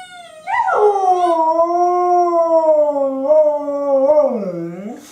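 Dog howling: one long, loud howl that comes in strongly about half a second in, slowly sinks in pitch, and dips lowest just before it breaks off near the end.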